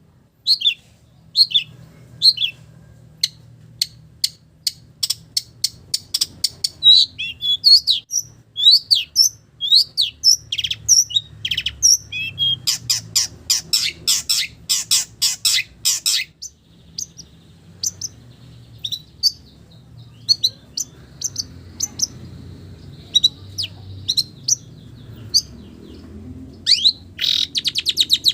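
Long-tailed shrike (cendet) singing a varied string of short, sharp high notes, with a fast run of rapid notes about halfway through. Its song is filled with imitations of village birds.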